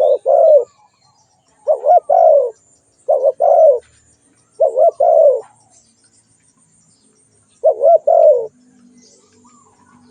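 Spotted dove cooing: five phrases of two or three low coos each, a second or so apart, with a longer pause before the last phrase.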